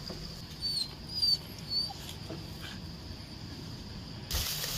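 A dog whimpering in three short, high squeaks about half a second apart, with a rustle near the end.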